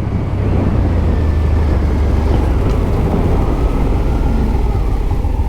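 Suzuki SV650's V-twin engine running under way as the motorcycle is ridden, its note drifting a little in pitch, with heavy wind rumble on the microphone.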